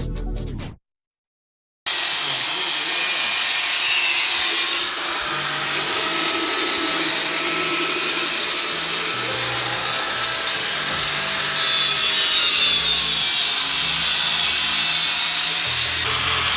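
Power tool running steadily with a loud high hiss, its sound shifting a couple of times as the load changes.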